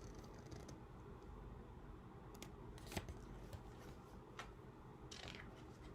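Faint paper handling from a hardback picture book: a few light clicks, then a short papery swish near the end as a page is turned.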